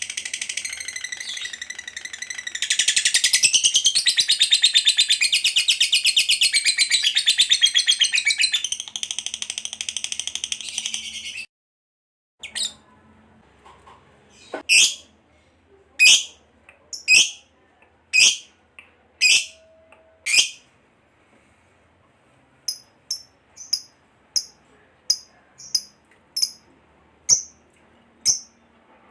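Lovebird's long, rapid chattering trill (ngekek panjang), high and shrill, louder after about three seconds, breaking off suddenly near the middle. After that come single sharp chirps about once a second, then a quicker run of short chirps near the end.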